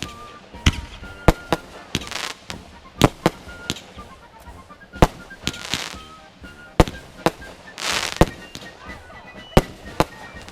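Fireworks going off: a string of sharp bangs at irregular intervals, a dozen or so, with several hissing bursts of about half a second mixed in.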